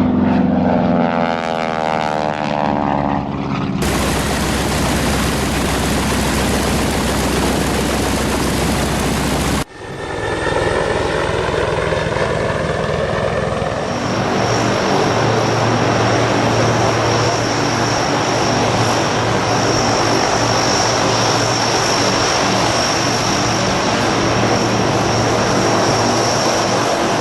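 Propeller aircraft engines running loud and steady, in several cut-together shots with abrupt changes about 4 and 10 seconds in; a thin high whine runs through the second half.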